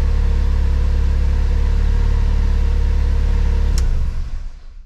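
Honda S2000's forced-induction four-cylinder engine, running on E85 through Injector Dynamics ID1300X injectors, idling steadily. Near the end a click, and the engine is switched off, its sound dying away.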